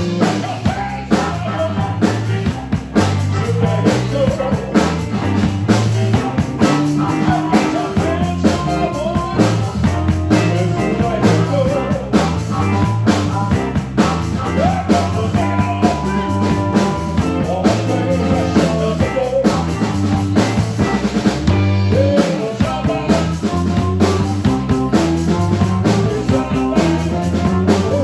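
Rock band playing live, with a drum kit beating steadily under a pulsing bass line and a lead melody whose notes bend up and down.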